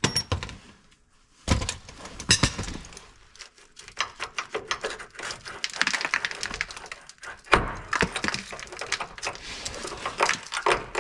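Hand work on a rusted truck cab mount: a run of irregular metal knocks, clanks and scraping. The sharpest knocks come near the start, around two seconds in, and near eight seconds in.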